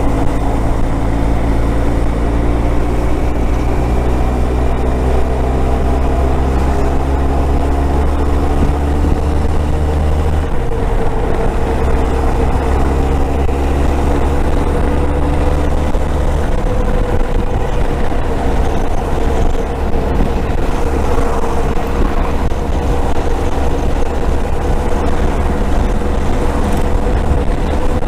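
Motorcycle engine running on the highway under a heavy low wind rumble. Its note rises slowly over the first ten seconds and changes about ten seconds in, then holds steady.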